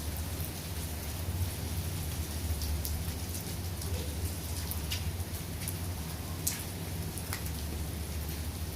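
Steady rain falling, with scattered sharper drip taps and a steady low rumble underneath.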